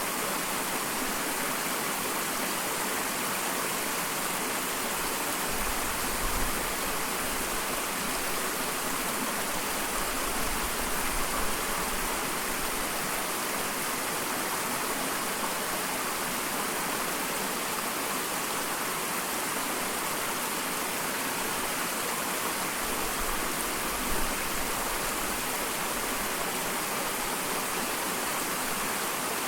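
Small waterfall: water pouring and splashing in a steady, unbroken rush, with a few brief low rumbles rising out of it.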